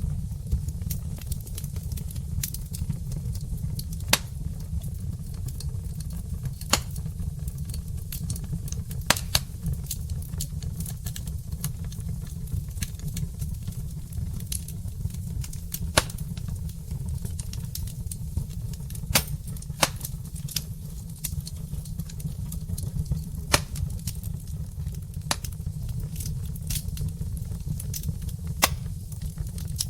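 Log fire burning in a fireplace: irregular sharp crackles and pops, a few of them louder, over a steady low rumble of the flames.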